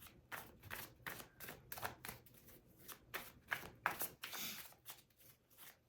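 Tarot cards being handled and shuffled: a quiet run of irregular soft flicks and taps.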